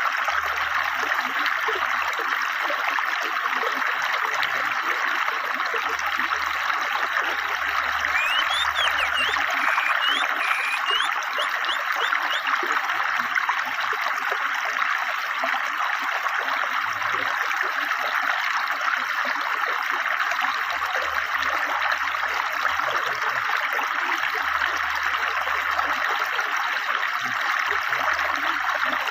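A swift river flowing steadily, a continuous rushing of water. About a third of the way in, a bird gives a short run of high chirps over it.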